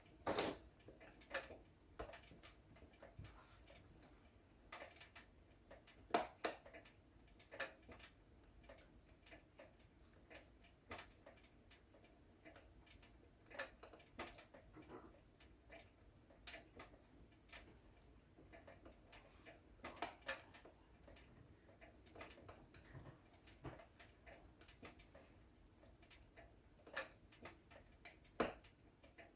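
Wood fire in a fireplace crackling, with irregular sharp snaps and pops over a faint steady hiss. The louder pops come near the start, about six seconds in, and near the end.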